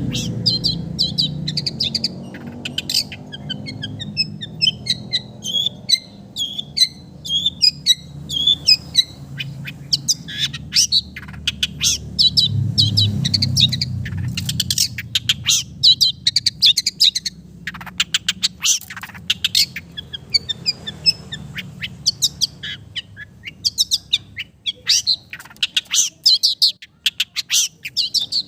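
Long-tailed shrike singing a fast, continuous run of sharp chirps and short whistles, a mimicking song said to be filled with sooty-headed bulbul phrases. A low rumble runs underneath, strongest about halfway through.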